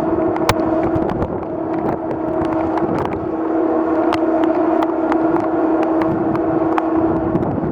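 A ship's steady, unchanging tone, with wind and water noise underneath and scattered sharp taps, likely raindrops hitting the microphone.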